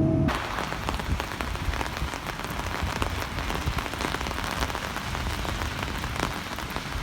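Steady rain falling on a surface, an even hiss full of fine patter from individual drops. It cuts in suddenly just after a low rumble stops at the very start.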